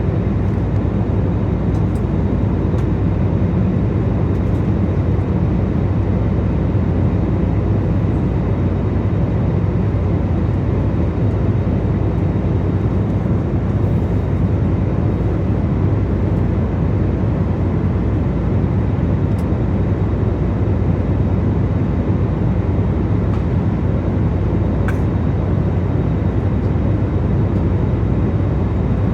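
Steady cabin noise inside a Jetstar Airbus A320-family jet airliner in flight: a constant low drone of engines and airflow that does not change.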